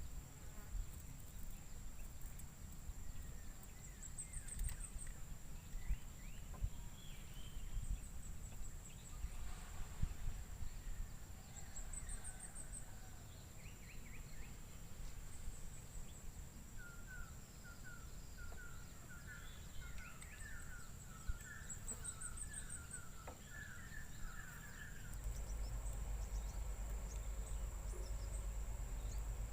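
Tropical riverbank ambience: birds calling with scattered short chirps and a run of quick repeated notes in the middle, over a steady high-pitched insect drone. A low rumble underneath grows louder about 25 seconds in.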